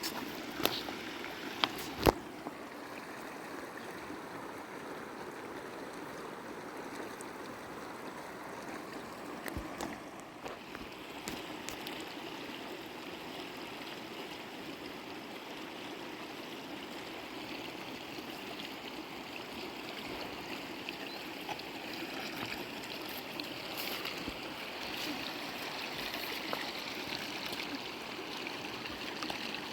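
River water flowing steadily, with a few sharp knocks in the first two seconds, the loudest about two seconds in.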